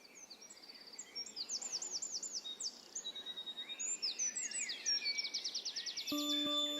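Several songbirds singing together, fading in: overlapping chirps, trills and fast runs of repeated notes. Near the end a sustained musical note comes in under the birdsong.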